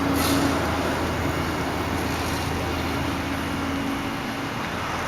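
The 2.0-litre inline four-cylinder engine of a 2010 Hyundai Elantra Touring idling steadily, heard from outside the car as a low, even hum. The hum eases off a little near the end.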